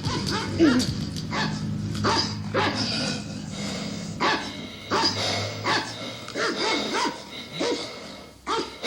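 A dog barking over and over, short sharp barks roughly once or twice a second.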